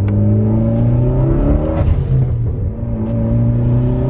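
Car engine accelerating hard, revs climbing, with a gear change about two seconds in: the revs drop, then climb again in the next gear.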